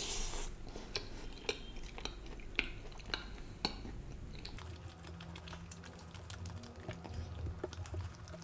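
Close-miked chewing of a mouthful of double cheese margherita pizza crust, with many small mouth clicks.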